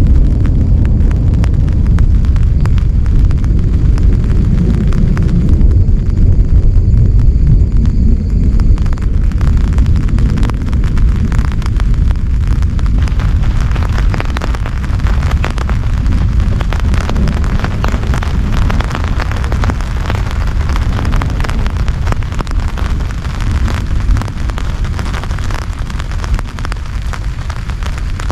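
Heavy rain pounding on a tent: a dense low rumble under close, crackling drop patter, easing slightly toward the end.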